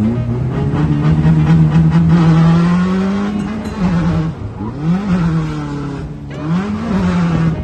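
Drift car engine held at high revs through a slide for about three seconds, then blipped up and back down twice, with tire noise over it.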